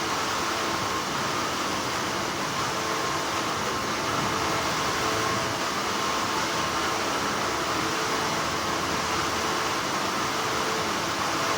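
Continuous hum of textile factory machinery, a steady whirring drone with a faint whine held at a constant pitch.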